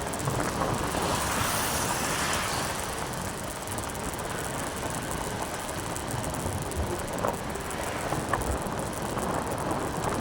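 Motorcycle on the move: steady wind rush and road and engine noise on the microphone.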